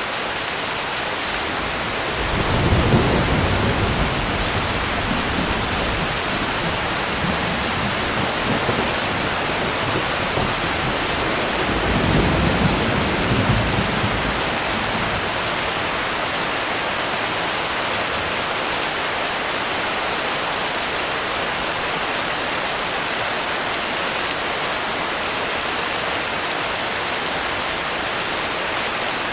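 Steady heavy rain with two low rolls of thunder, the first swelling about two seconds in and the second around twelve seconds in, each fading after a few seconds.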